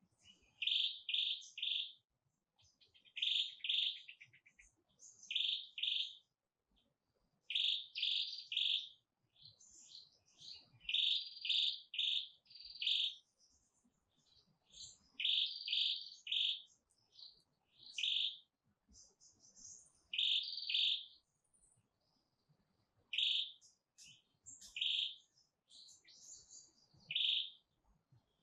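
A songbird singing: short bursts of two to four high, clear chirps repeated every second or two, with a brief rapid trill a few seconds in.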